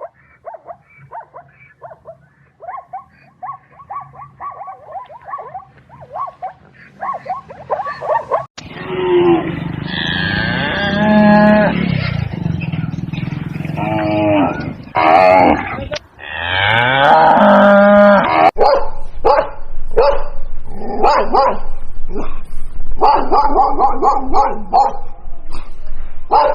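Farm animals calling, in several clips one after another: many short calls at first, long loud calls from about a third of the way in, then quick repeated calls in the last third.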